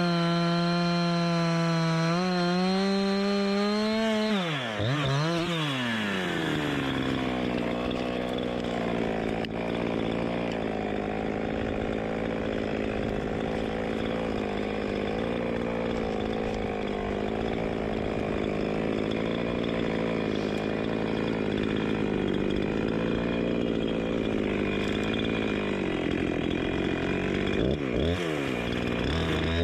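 Chainsaw running at high revs, then dropping to a lower, wavering pitch about five seconds in as it cuts through wood under load. Near the end the revs swing up and down.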